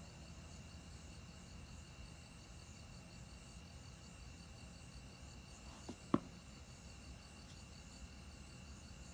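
Faint night chorus of crickets and other insects: a steady high trill with a fast pulsing chirp above it. Two short sharp knocks come about six seconds in, the second louder.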